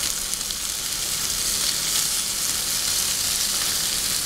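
Shrimp and grilled zucchini slices sizzling steadily in olive oil in a frying pan over a gas flame.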